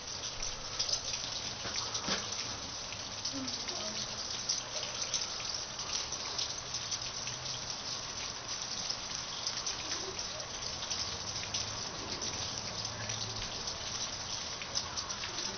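Steady patter of wet precipitation during a snowstorm: many fine ticks of drops over a constant hiss.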